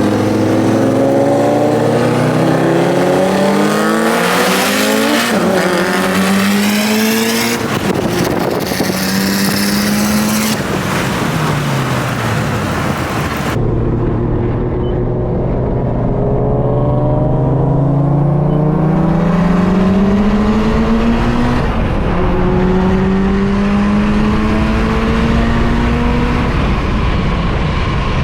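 Car engine under hard acceleration on a track, its pitch climbing through each gear and dropping at the upshifts, several times over. About halfway through, the sound suddenly turns muffled and bass-heavy, with the hiss gone.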